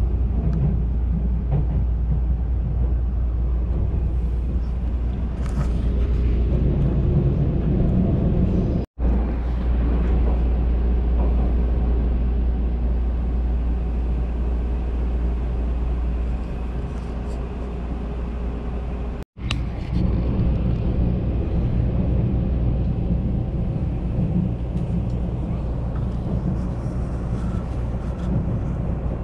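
Steady low rumble of a Keisei Skyliner electric train heard from inside the passenger cabin as it runs. The sound drops out completely twice, very briefly.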